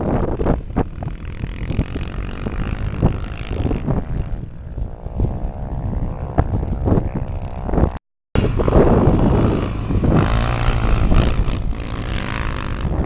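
Off-road race engines running and revving up and down, with a brief dropout of all sound about eight seconds in.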